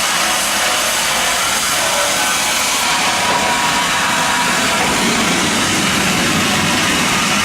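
MEBOR band sawmill running and sawing through wood, a steady, loud mechanical sawing noise.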